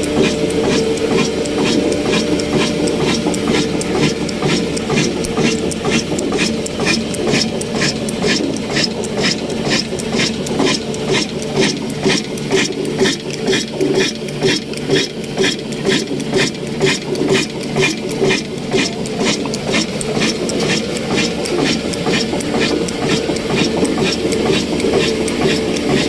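Old 300 RPM diesel oil engine running steadily, its exhaust beating about two to three times a second over a steady mechanical drone.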